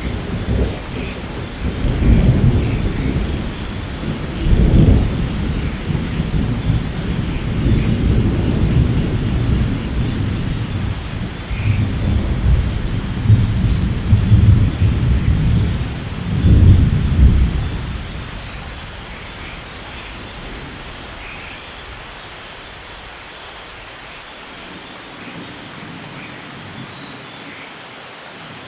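Heavy rain falling steadily through a long, rolling peal of thunder. The rumbling swells in waves, loudest about five seconds in and again near seventeen seconds, then fades out, leaving only the rain.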